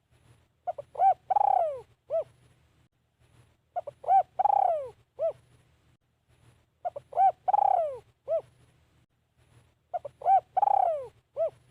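Spotted dove cooing. It repeats its phrase four times, about three seconds apart: a couple of short notes, a long falling coo, then one short coo.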